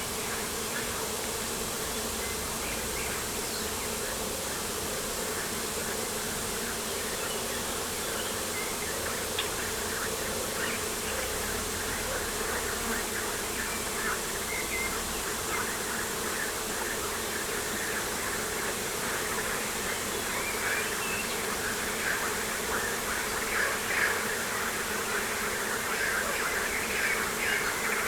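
Outdoor ambience with a steady insect buzz, and many short high chirps or ticks that grow denser and louder over the last several seconds.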